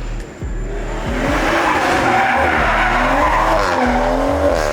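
Car tyres screeching loudly in a drift, the screech building about a second in and holding.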